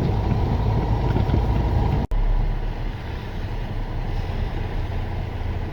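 Truck engine running and road noise heard inside the cab while driving, a steady low drone; the sound cuts out for an instant about two seconds in.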